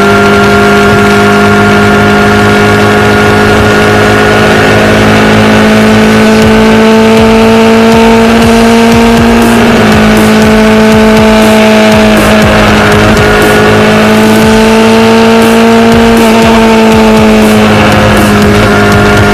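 Motorcycle engine running at a steady cruising speed, loud and close. Its note creeps slowly higher, eases off slightly about halfway through and again near the end, over a constant rush of wind and road noise.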